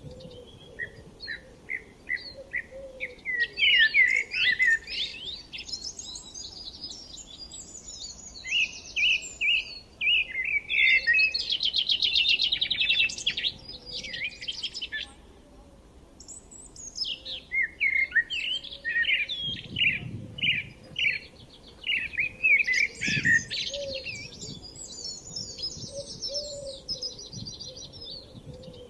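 Several birds singing together: runs of quick repeated chirps and rapid trills that rise and fall in strength, with short lulls between bursts.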